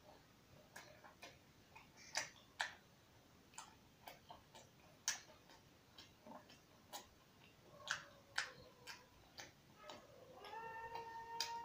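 Faint close-up eating sounds: irregular wet clicks and smacks of a mouth chewing roti and rice. Near the end a faint, drawn-out whining call from a pet animal sets in.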